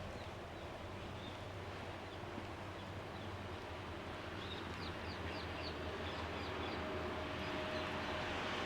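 Small birds chirping, a quick run of five or six short high chirps about four and a half seconds in, over a steady background hum and hiss that slowly grows louder.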